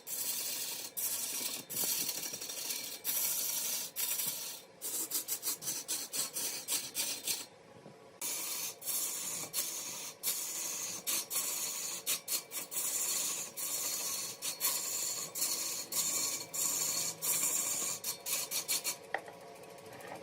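A cutting tool scraping mahogany on a woodworking lathe, in a rapid series of short rasping strokes. There are brief breaks about seven seconds in and again near the end.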